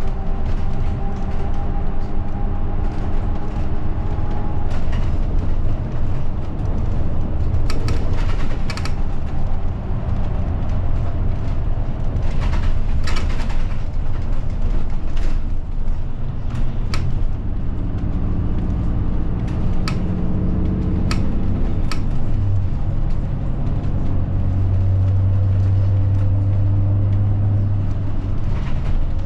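Inside a route bus on the move: the engine runs with a deep rumble, its tone slowly rising and falling as the bus drives, then holding steady near the end. Scattered sharp rattles and knocks from the cabin sound over it.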